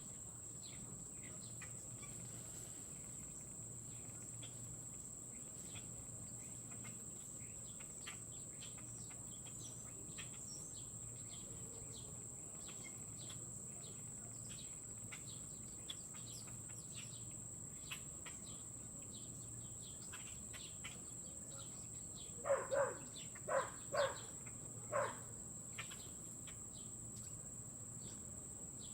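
A steady high-pitched insect drone, like crickets, with scattered faint bird chirps, and a run of five loud bird calls in quick succession about two-thirds of the way through.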